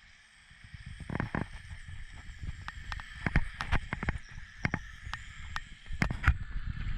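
Radio-controlled car running, heard up close: a string of sharp knocks and rattles over a low rumble and a faint steady high whine, growing louder after about a second.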